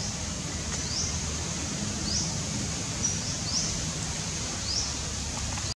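A bird's short, rising high chirps, repeated about once a second, over a steady low rumble of outdoor background noise.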